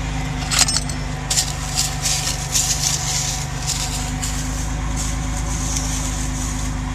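A Ford F250 service truck's engine idling steadily, with scattered light crackles over it in the first few seconds.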